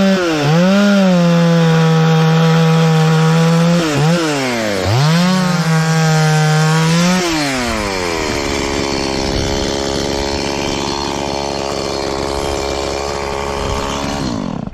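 Two-stroke chainsaw at full throttle cutting into wood, its pitch dipping briefly about four seconds in before climbing again. About seven seconds in it drops back to a lower, steady speed, and it stops at the very end.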